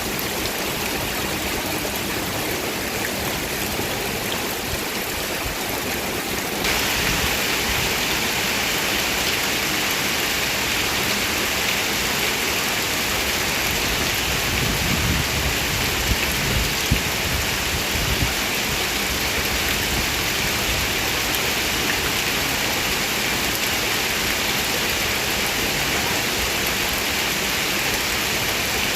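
Heavy rain pouring steadily. About a quarter of the way in it turns suddenly louder and harsher, and stays so. A low rumble comes near the middle.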